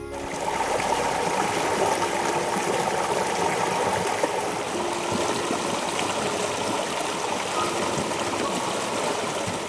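River water flowing: a steady, even rush of running water, with soft music faint underneath.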